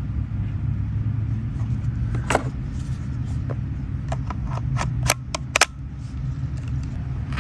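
A series of sharp plastic clicks and taps from handling the Saker mini cordless chainsaw and its battery, the two loudest just past the middle, over a steady low rumble.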